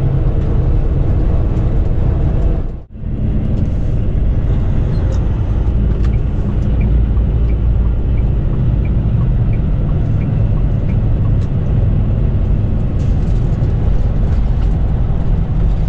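Semi-truck on the move, its engine and road noise running steadily as heard from the cab, cutting out briefly for a moment about three seconds in.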